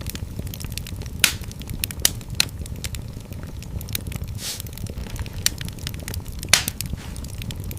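Wood fire burning in a fireplace: a steady low rumble of flames with irregular crackles and several sharp, louder pops.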